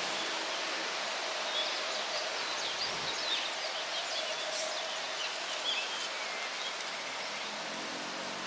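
Steady wind rustling through trees, with small birds chirping in quick, scattered calls through the middle.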